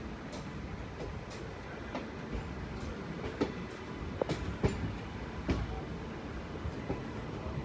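WDS-4D diesel shunting locomotive moving on rails: a steady low rumble with irregular clanks and clicks from wheels and couplings, the loudest a little past halfway.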